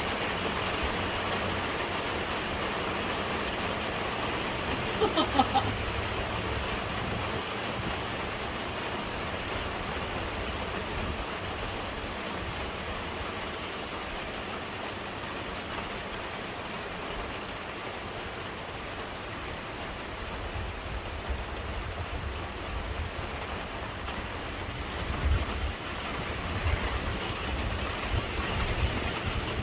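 Heavy rain pouring down steadily in a strong wind storm, with low gusts of wind buffeting the microphone in the last few seconds. A brief pitched sound stands out about five seconds in.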